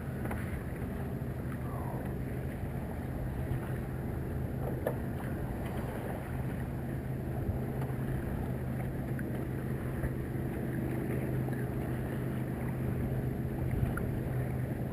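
Steady wind and water noise aboard a sailboat underway, with a continuous low hum underneath.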